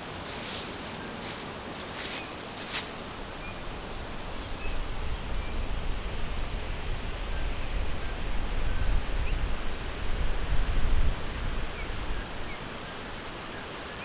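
Forest ambience: a steady hiss with faint, scattered short bird chirps and a few rustles in the first few seconds. A low rumble swells in about four seconds in and fades near the end, the loudest thing heard.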